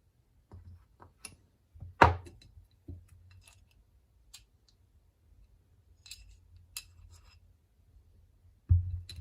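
Small hard objects, likely metal, being handled and set down: scattered clicks and clinks, with a heavier knock about two seconds in and another near the end.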